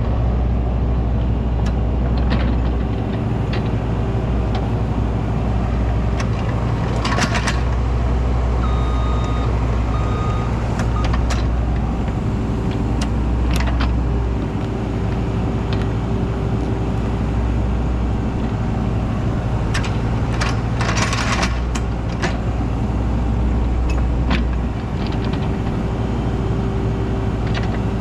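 Cat excavator's diesel engine running steadily under load while digging a trench, with a whine that rises in and drops out several times. Scraping and clanking from the digging break through, loudest about seven seconds in and again around twenty-one seconds.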